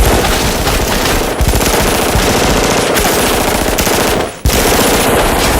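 Dense, rapid automatic gunfire from a film shootout, many shots overlapping into a continuous barrage, with a brief break about four and a half seconds in.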